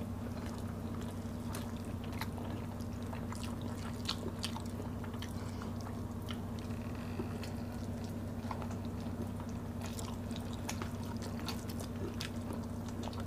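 People eating fried fish and rice with their hands: scattered soft wet chewing and mouth clicks, over a steady low hum.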